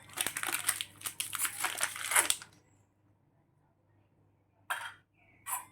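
A utensil scraping the cream filling off Oreo biscuits: a crackly, scratchy scraping for about two and a half seconds, then two brief scrapes near the end.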